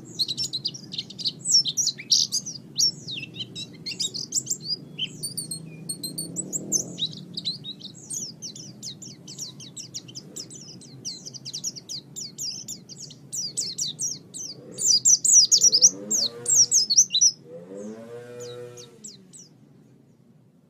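A dense chorus of small birds chirping and twittering in rapid high notes, loudest shortly before the end. Two lower, drawn-out calls rise and fall in pitch near the end before the sound fades out.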